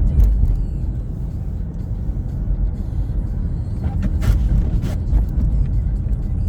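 Car driving: a steady low road-and-engine rumble, with a few faint ticks or knocks about four and five seconds in.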